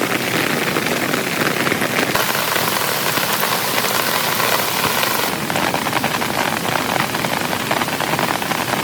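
Heavy rain falling steadily, a dense hiss of countless drops; for about three seconds, starting two seconds in, the hiss turns brighter and sharper before settling back.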